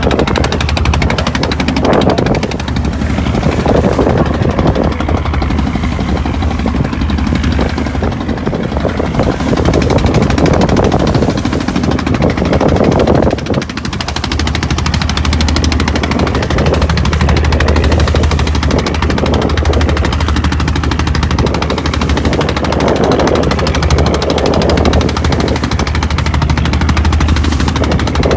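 Boat engine running steadily at sea with a rapid, even chugging beat.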